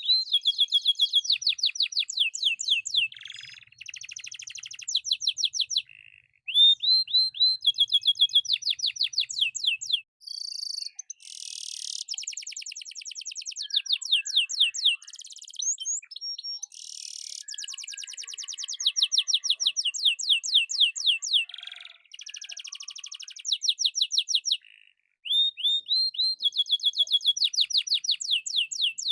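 Domestic canary singing continuously: long, varied phrases of fast repeated rising notes and rapid trills, broken by a few short pauses.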